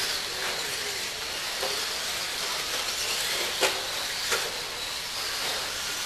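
RC stadium trucks racing on a track: a steady hiss of motors and tyres, with a couple of sharp knocks about three and a half and four and a half seconds in.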